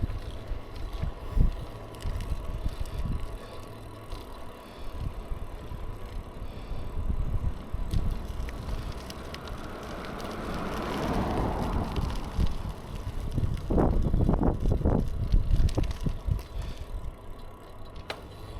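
Bicycle being ridden: tyre and road noise with irregular wind buffeting on the microphone and small rattles. A hiss swells and fades about halfway through.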